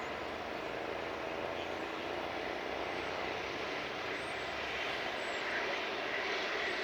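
Jet airliner engines heard as a steady rushing noise as the plane comes in to land, growing slightly louder toward the end.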